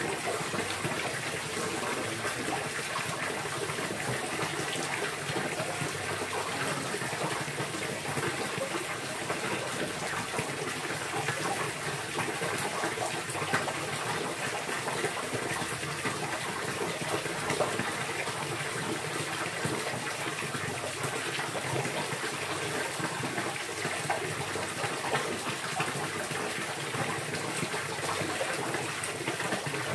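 Steady rushing, splashing water with an even, unbroken sound.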